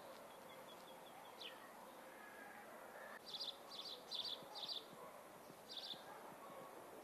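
Small birds chirping over a quiet outdoor background: a faint twittering and a short downward call early on, then four quick high chirps about three seconds in and one more a second later.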